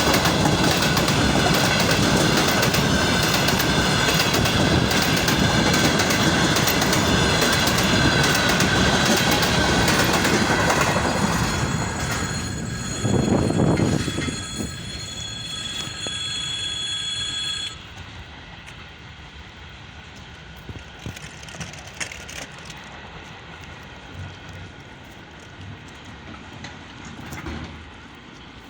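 Freight wagons rolling past, with wheels clacking over rail joints and a steady high wheel squeal. The sound is loud through the first half, swells briefly after twelve seconds, then drops off sharply about two-thirds of the way through, leaving only scattered quiet clicks.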